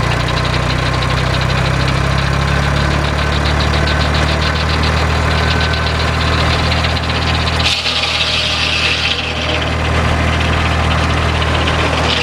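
Engine of an old sawmill running steadily at idle. A brief hiss comes about eight seconds in, and another near the end.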